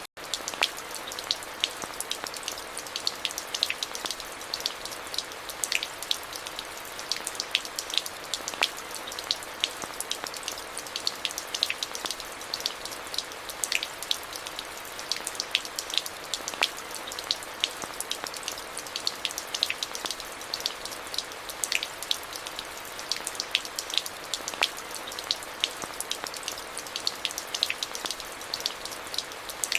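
Steady rain falling, an even hiss dotted with many sharp ticks of individual drops landing close by. The sound drops out for a split second right at the start.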